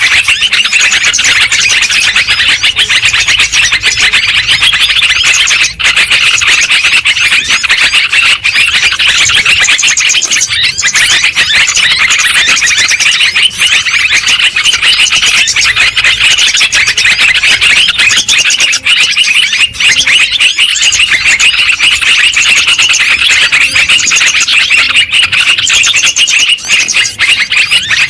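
Yellow-vented bulbuls (trucukan) chattering in a loud, dense, unbroken chorus of quick notes.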